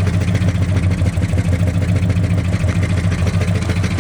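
Ford 390 FE V8 in a 1976 Ford F-250 idling steadily through new headers and exhaust. The engine is worn, with two cylinders low on compression, and smokes a little.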